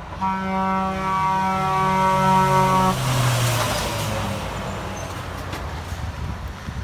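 Truck air horn sounding one steady chord for nearly three seconds, then cutting off as the lorry goes by with a rush of tyre and wind noise and its engine rumble fading away.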